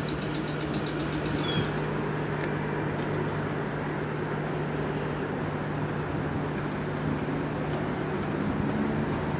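Steady hum and rumble of an electric train at the station, with a constant low tone and no wheel squeal. Two faint short high chirps come about five and seven seconds in.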